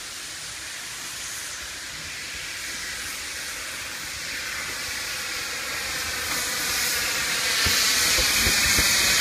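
Puffing Billy narrow-gauge steam locomotive hissing steam, growing steadily louder, with a few low knocks near the end.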